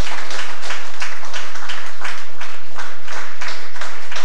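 Hands clapping in applause, close and loud, with about four even claps a second.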